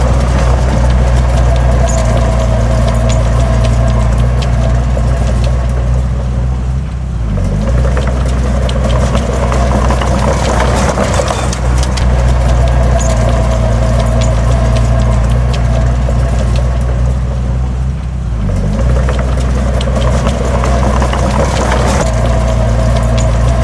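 Heavy diesel engine of earthmoving equipment running steadily under load, with a light rattling over it. The engine note drops briefly twice, about seven and eighteen seconds in.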